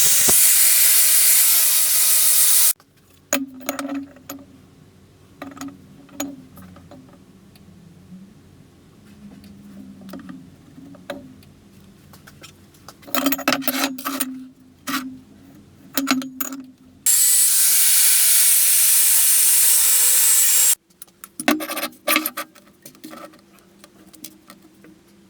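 A power tool runs at full speed in two bursts, each cutting off sharply. Between them come scattered clicks, knocks and rattles of parts being handled and fitted by hand.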